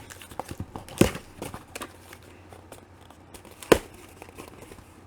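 Packaging being handled and unpacked: crinkling and rustling with small clicks, and two sharper knocks, one about a second in and one near the end.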